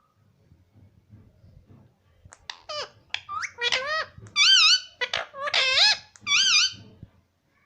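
Pet Indian ringneck parrot giving a quick run of loud, high-pitched squawks and chatter with a wavering pitch. The calls start about two seconds in and stop shortly before the end.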